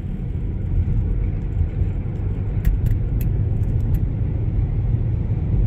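Steady low rumble of a car being driven, with road and engine noise, and a few faint clicks in the middle.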